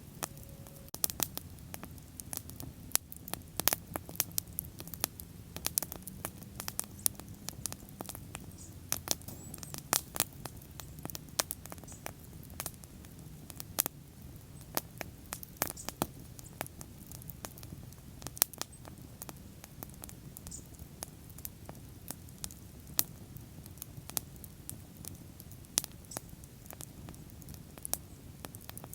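Wood fire crackling: frequent irregular sharp pops and snaps over a low steady rumble of burning.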